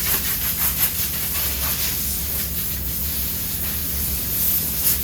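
Steady hiss of CNC shop machinery over a low hum, with a quick run of knocks and scrapes in the first two seconds as sheet material is handled during the changeover.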